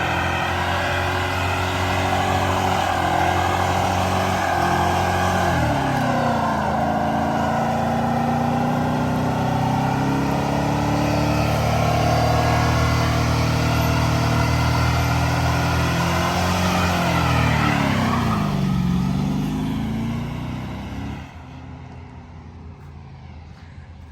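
Van engine revving hard at high rpm while spinning both rear tires in a burnout, testing a newly fitted rear differential. The revs dip about five seconds in, climb again, swing down and up near eighteen seconds, and the sound drops away about twenty-one seconds in.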